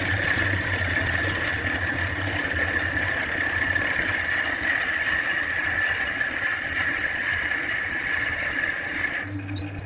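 A power tool running steadily on wood, a rough hiss with a high whine that cuts off about nine seconds in.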